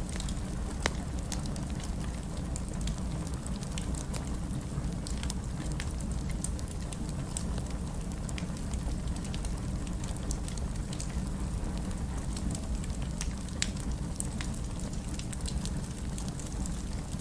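Wood fire burning in a fireplace: a steady low rumble of flame with frequent sharp pops and crackles scattered throughout.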